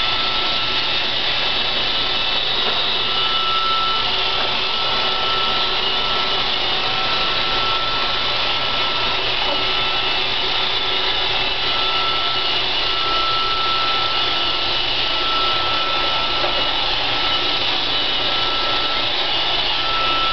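iRobot Roomba 560 robot vacuum running steadily, its vacuum motor and brushes making an even whirring hiss. A thin whine sounds on and off over it.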